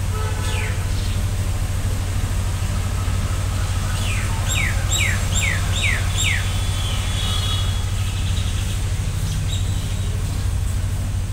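A steady low hum throughout, with a bird calling: one falling whistle just after the start, then a run of five quick descending whistled notes about four to six seconds in, and a few faint chirps later.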